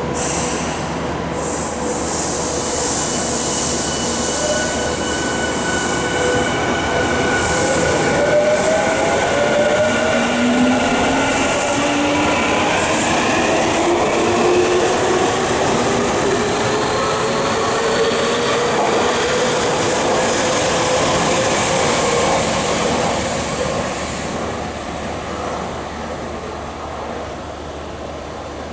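Yokohama Minatomirai Railway Y500 series electric train pulling away from the platform. Its traction-motor whine climbs in pitch over the running noise of wheels on rail, and the sound fades over the last few seconds.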